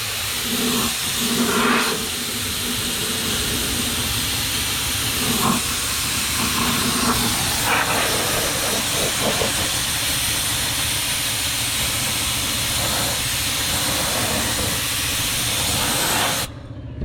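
Harbor Freight air-powered undercoating spray gun hissing steadily as it sprays rubberized undercoating. The hiss stops abruptly near the end.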